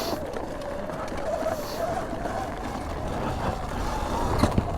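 2019 Sur-Ron Light Bee electric dirt bike's motor whining as it rides, the pitch wavering up and down with throttle and speed, over wind and tyre rumble. A couple of sharp knocks near the end.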